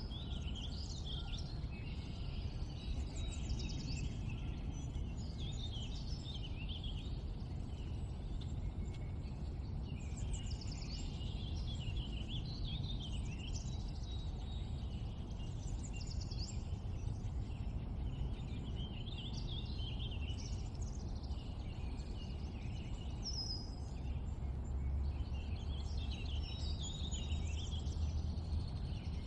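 Many short bird chirps and twitters, several calls overlapping throughout, over a steady low background rumble.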